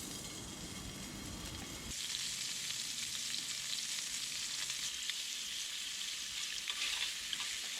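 Food frying in a hot pan, a steady sizzle with fine crackling that gets suddenly louder about two seconds in and holds.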